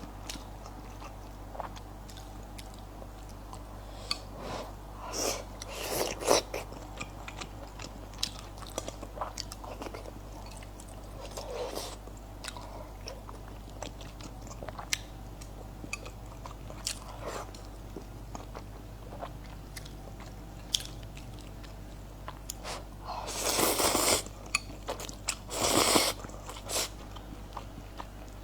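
Close-miked chewing and biting of food, with wet mouth clicks throughout and a few louder noisy bursts, the strongest about six seconds in and again near 24 and 26 seconds in.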